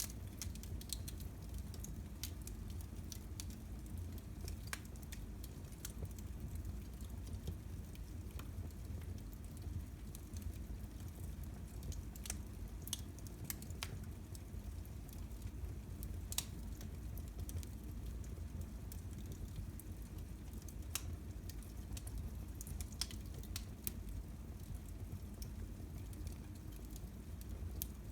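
Fireplace fire crackling: irregular sharp pops and snaps, a few every several seconds, over a low steady rumble of the flames.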